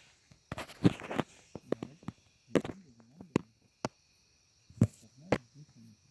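A series of sharp knocks and clatters, the loudest cluster about a second in, over a steady high drone of crickets; low voices murmur faintly between the knocks.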